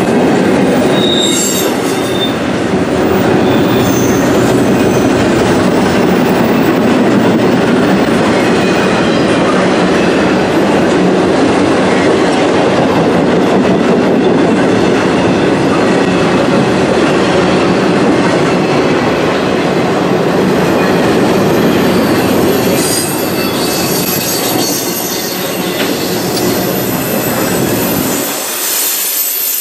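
Intermodal freight cars rolling past close by: a loud, steady rumble of steel wheels on rail. High wheel squeal comes through about a second in and again from about 23 s on. The low rumble drops away near the end.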